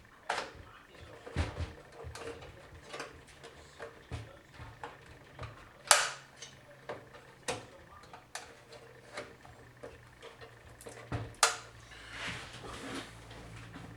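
Irregular clicks and knocks of PC case and drive parts being handled and fitted, with two sharper knocks about six and eleven and a half seconds in.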